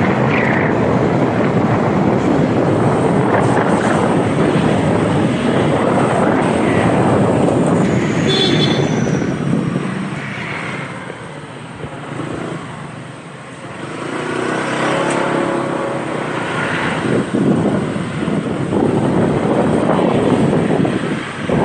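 Motorcycle ride in traffic: engine running and wind rushing over the microphone. The noise quietens for a few seconds about halfway through, then rises again.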